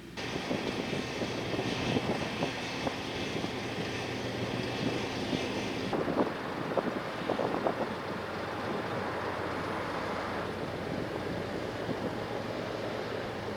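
Wind buffeting the microphone over the wash of the sea, with a steady low hum underneath. The gusty hiss is strongest for the first six seconds or so and then eases.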